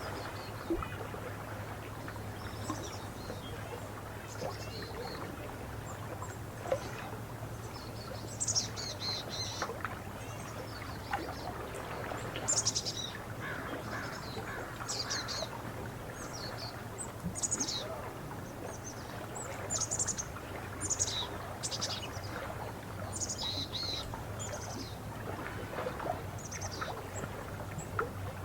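Small birds chirping and singing in short, high, quick calls, scattered throughout with a busier stretch in the middle, over a steady low background hum.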